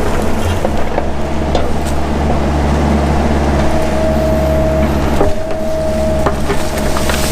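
Mini excavator's diesel engine running steadily under working load. A thin whine comes in twice in the second half, and scattered clicks and knocks cut through the engine sound.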